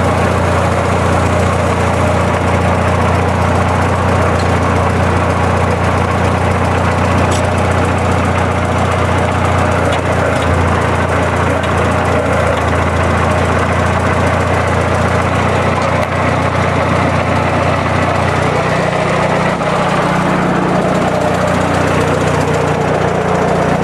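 Old Massey tractor engine idling steadily, its note shifting slightly near the end.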